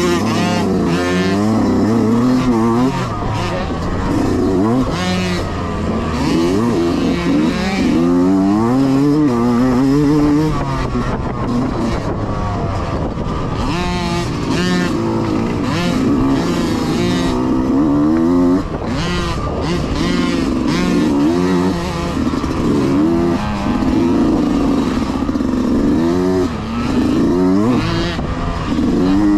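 Several mini dirt bike engines racing past, revving up and down over and over as the riders open and close the throttle and shift gears.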